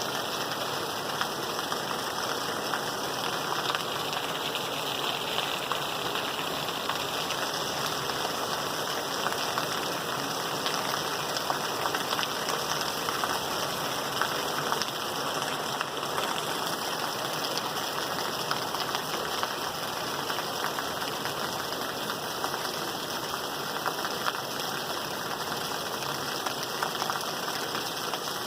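Steady rain falling, a continuous even hiss with many small drop ticks throughout.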